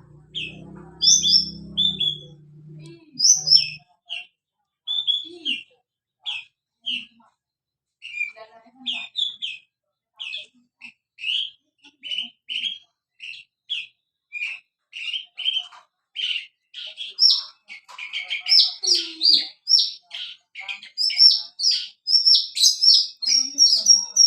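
Horsfield's bushlark (branjangan) singing continuously: a long run of short, sharp chirping notes that comes faster and denser in the second half, with higher notes near the end.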